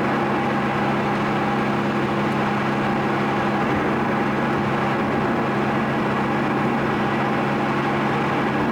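Car engine and road noise heard from inside the cabin while cruising at a steady speed: a steady drone that holds one pitch.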